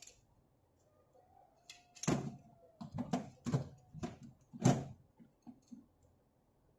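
A handful of sharp knocks and thuds, about six within three seconds, as objects are handled and set down on a workbench.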